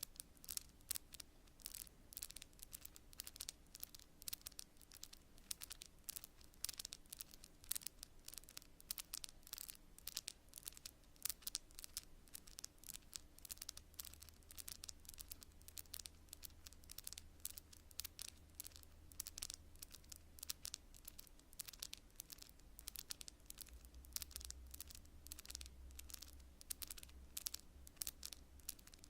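Long natural fingernails tapping on cards: a rapid, irregular run of light, crisp clicks, several a second, with the odd scratch.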